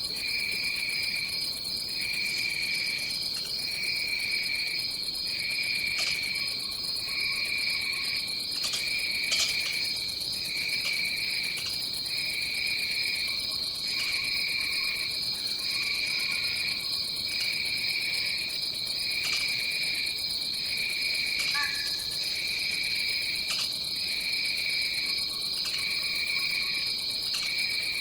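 Rainforest insect chorus: one insect drone held steady and high, with a lower chirping call that switches on and off about once a second. A few faint clicks and a brief falling call come a little past the middle.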